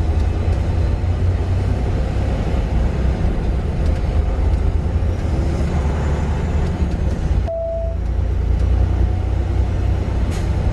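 Semi truck's engine and road noise droning steadily inside the cab while driving, with a short single beep about seven and a half seconds in.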